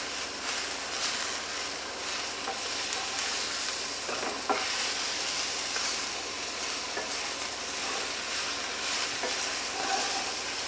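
Spiced onions, sweet potato and spinach sizzling in a frying pan while being stirred: a steady frying hiss with a few light knocks of the stirring utensil around the middle.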